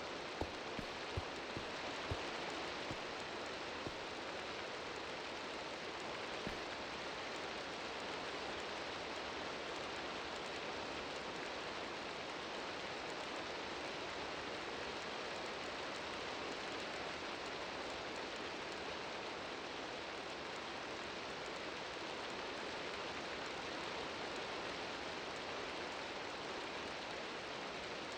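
Steady rainfall, an even hiss of falling drops that holds level throughout, with a few sharp taps in the first several seconds.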